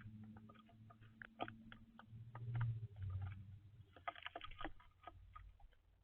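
Birds pecking at a feeder: quick, irregular clicks and taps of beaks on seed and wood. Under them runs a low hum that swells about two and a half seconds in and fades near the end.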